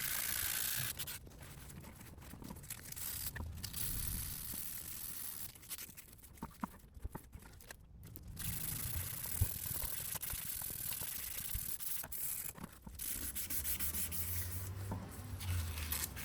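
Hand sanding: uneven rubbing and scraping strokes with short pauses between them.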